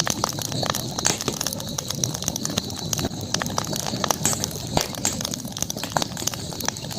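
Campfire crackling, with frequent irregular pops and snaps over a steady hiss.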